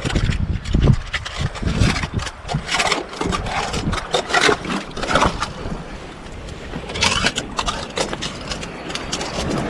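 Irregular scrapes and knocks against rocks, as a man pokes around under a rock too big to turn over, looking for crabs or shellfish hiding beneath; wind buffets the microphone with a low rumble.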